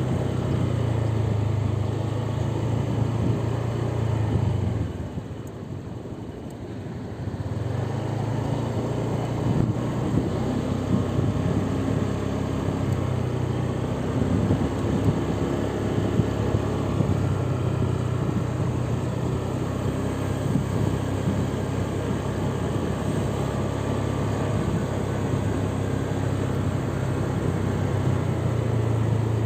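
Car engine and road noise, a steady low hum that drops away for a couple of seconds about five seconds in, then comes back.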